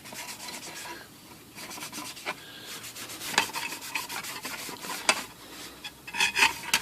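A rag is rubbed briskly over a typewriter casing panel: a rapid run of scrubbing strokes with a few sharper knocks along the way.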